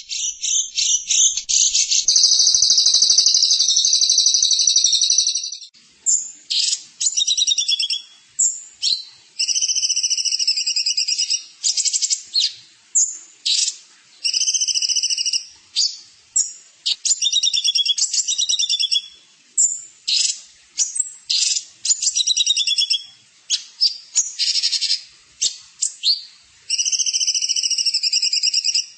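A songbird singing high-pitched, rapid trilled phrases: one long unbroken trill about two seconds in, then a string of short trills and buzzy bursts separated by brief pauses.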